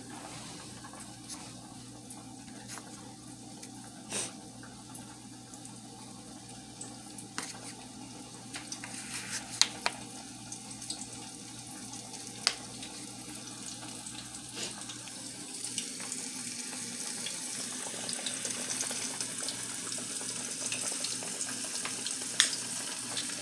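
Catfish nuggets frying in hot oil in a pot: a steady sizzling hiss with scattered sharp crackles and pops. The sizzle grows louder over the last several seconds.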